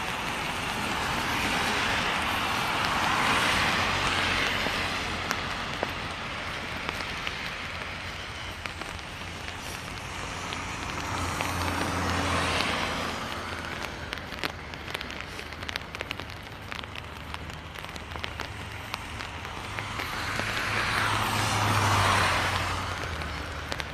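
Cars passing on a rain-wet road, three times: each time a broad tyre hiss and low engine hum swell up and fade away. Scattered light ticks of rain run through the second half.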